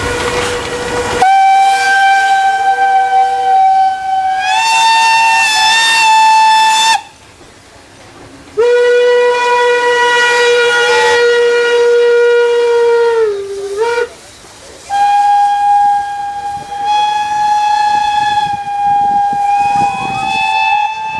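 Steam locomotive whistles sounding three long blasts of several seconds each, the first stepping up in pitch partway through and the second sagging in pitch as it ends. A hiss of steam comes before the first blast.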